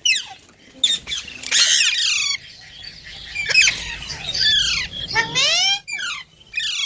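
Green rose-ringed parakeets (Indian ringnecks) squawking and screeching in a rapid run of harsh calls, most sliding down in pitch and a few sliding up.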